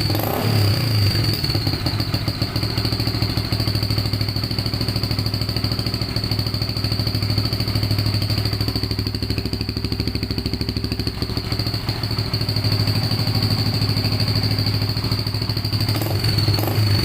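Yamaha Vixion single-cylinder motorcycle engine running and being revved through a gutted muffler fitted with a fake turbo whistle, which adds a steady high whistle over the exhaust note. A few throttle blips come about a second in and again near the end.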